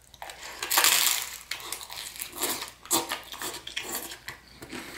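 Close-up chewing and crunching of crisp pan-fried rice noodle sheets (phở chiên), in irregular crackly bites.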